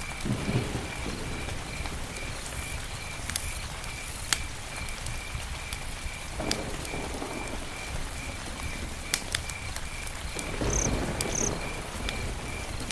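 Campfire crackling, with scattered sharp pops and a few low swells of flame noise. A cricket chirps steadily in the background.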